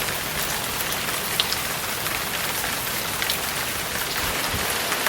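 Steady heavy rain pouring down, a dense even hiss with scattered sharper drops landing close by.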